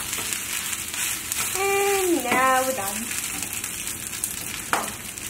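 Kimchi fried rice sizzling in a frying pan as it is stirred with a wooden spatula, with a short vocal sound about two seconds in and a single tap near the end.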